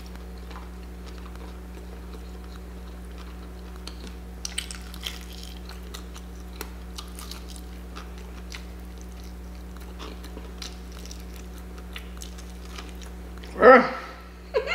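A person chewing a mouthful of fried chicken with soft, scattered mouth clicks and smacks, over a steady low hum. The chicken has little crunch to it. A short voiced sound comes near the end.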